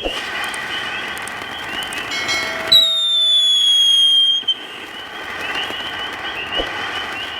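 Dominator Howling Wolf firework fountain spraying with a steady hiss. About three seconds in, a loud whistle starts high and slides slowly downward for about a second and a half before stopping, leaving the hiss.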